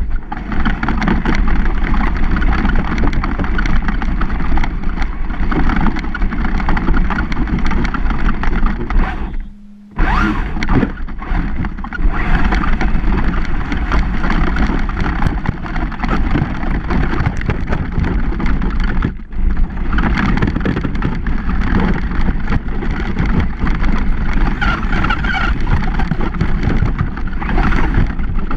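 Onboard sound of a Traxxas Slash 4x4 electric RC truck being driven: a constant loud, rough rush of tyres, drivetrain and chassis rattle with wind on the mounted camera. It drops out briefly about ten seconds in and comes back with a sharp knock.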